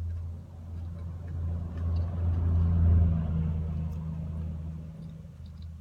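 A low vehicle rumble that swells to its loudest about three seconds in and then fades away, like a car driving past, over a steady low hum.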